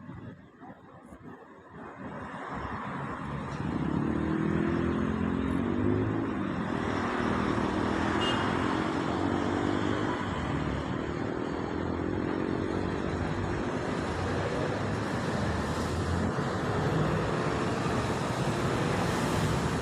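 Emergency medical helicopter's rotor and turbine engine, growing louder over the first few seconds and then running steadily loud with a droning hum.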